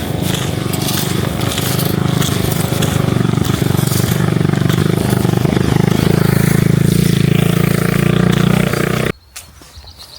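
A motor engine running loud and steady close by, cutting off abruptly about nine seconds in.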